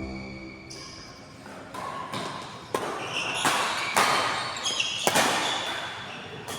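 Badminton rally: rackets striking the shuttlecock several times about a second apart, with short high squeaks of shoes on the court between the hits.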